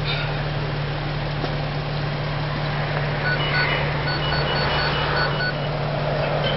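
A vehicle engine running steadily, with a string of short electronic beeps, mostly in quick pairs, for about two seconds around the middle.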